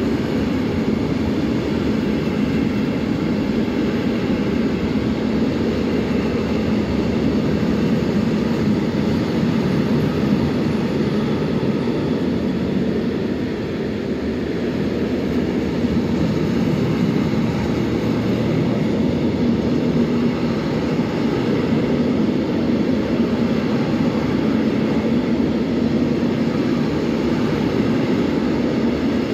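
Train running past, a steady rolling rumble of wheels on rail that dips slightly about halfway through.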